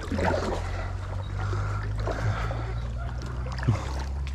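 A boat's motor running with a steady low hum that starts suddenly and holds even.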